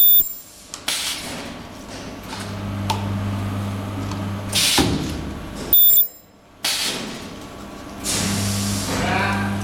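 PVC cylinder-bottom ultrasonic welding machine running through its weld cycle: two short, loud bursts with a thin high-pitched whine, one at the start and one about six seconds in, over a steady low hum, with a hiss just before the second burst.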